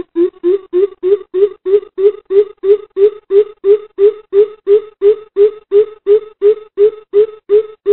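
Greater coucal calling: a long unbroken series of low 'boop' notes, about three to four a second, rising slightly in pitch over the first second or so and then holding steady.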